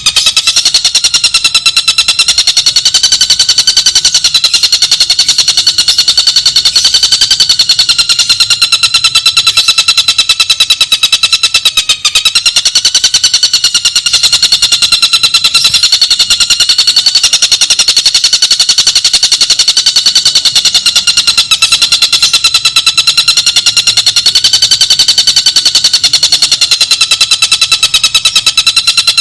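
A bird's rapid buzzing trill held without a break, very fast even pulses on a high pitch that wavers slightly every few seconds.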